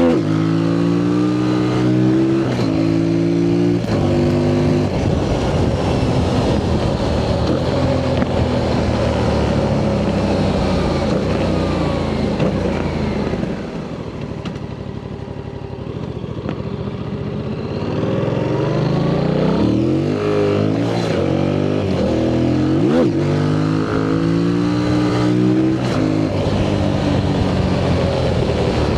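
Yamaha MT-07's parallel-twin engine through its stock exhaust, revving up and dropping back with gear changes. It eases off and runs quieter in the middle, then pulls up through the revs again with a few quick sharp rises.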